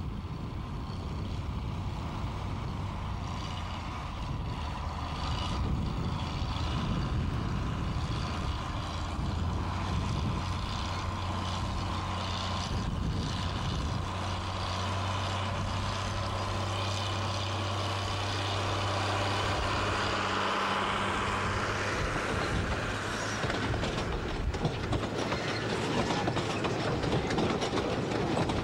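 Diesel locomotive of a 3 ft gauge peat railway hauling a loaded train: a steady engine drone that stops about two-thirds of the way through, after which the rolling noise of wagon wheels on the track grows louder.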